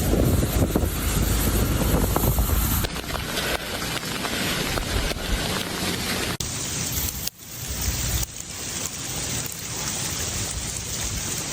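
Outdoor ice-storm noise: a steady rush of wind and falling freezing rain on the microphone. It changes abruptly several times where separate clips are cut together.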